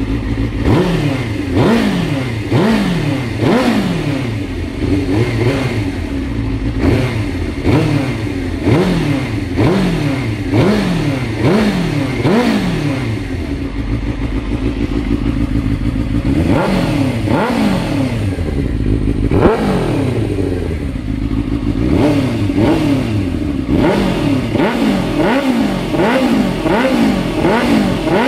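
Suzuki GSX-R 750 K2's inline-four engine, breathing through a Yoshimura aftermarket exhaust, revved in quick repeated blips about once a second. Each blip rises sharply and falls back toward idle, with a couple of short pauses at idle between the runs of revs.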